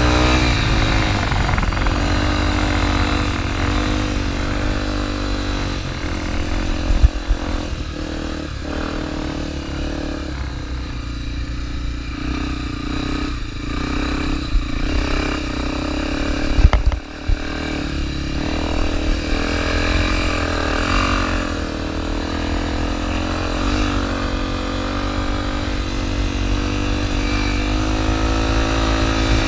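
Honda XR250 Tornado's single-cylinder four-stroke engine revving up and down as the trail motorcycle is ridden over sand dunes. A few sharp knocks come about seven seconds in and again around seventeen seconds.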